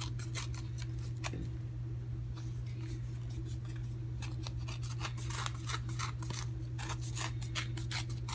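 A sheet of cardstock being worked by hand, giving short, crisp paper sounds in irregular bursts, over a steady low hum.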